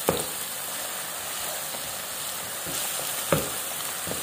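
Chopped onions, curry leaves and green chillies sizzling steadily in hot oil in a non-stick pan as a wooden spatula stirs them, with an occasional sharp knock of the spatula against the pan.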